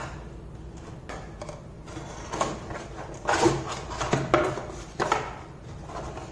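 Cardboard packaging rustling and scraping as a boxed children's feeding set is slid out of its cardboard shipping box. It comes as a handful of separate scrapes and knocks, the loudest a little past the middle.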